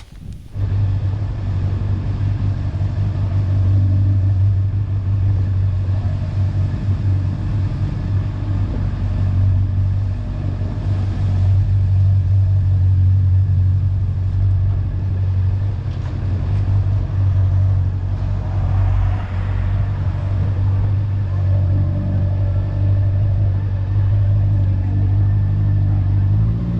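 Honda motorcycle engine running steadily while riding along, a constant low hum that starts abruptly about half a second in.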